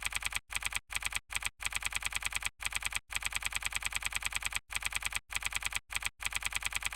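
Rapid, even clicking like keyboard typing, about a dozen clicks a second, in runs broken by short pauses.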